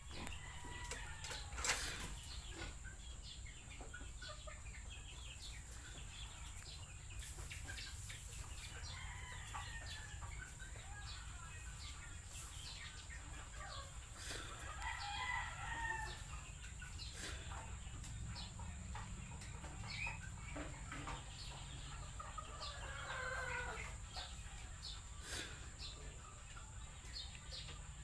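Chickens clucking and calling at intervals, with a rooster crowing, over scattered sharp clicks and a steady low rumble.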